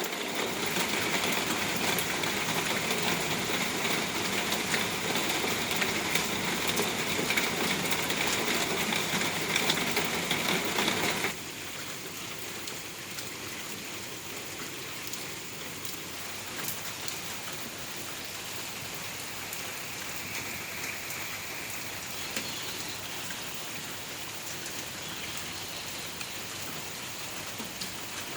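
Rain falling steadily, a dense even hiss of drops; about eleven seconds in it drops suddenly to a quieter, thinner patter that then holds steady.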